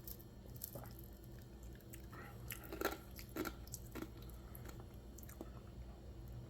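Faint sipping and swallowing of iced tea, a few small wet mouth clicks bunched together from about two and a half to four seconds in.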